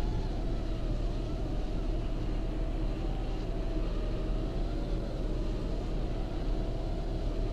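Steady low rumble and rushing of strong blizzard wind against a parked car, heard from inside the cabin, with a faint wavering whine over it.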